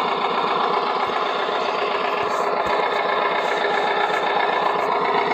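Small electric motor and gearing of a converted Bruder toy crane running steadily, with a fast, even whirring buzz, while the crane lifts a load.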